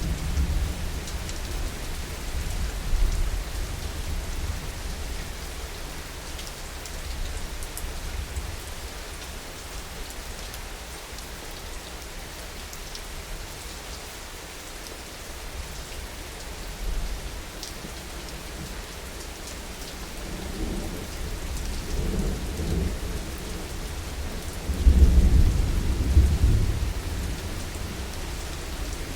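Steady rain falling, with thunder rumbling deep and low: a lighter roll at the start, a stronger one about two thirds in, and the loudest peal about 25 seconds in.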